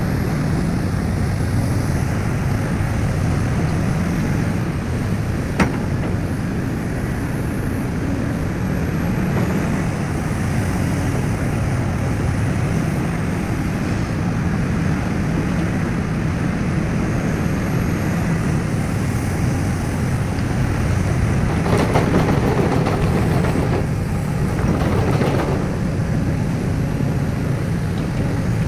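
Heavy diesel machinery, a large excavator working beside a loaded dump truck, running steadily under load. There is one sharp click about six seconds in. Near the end there are two louder, noisier stretches.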